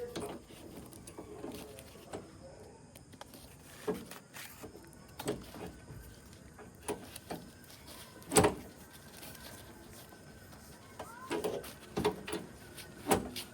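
Irregular knocks and clatter, the loudest about eight seconds in and another strong one near the end.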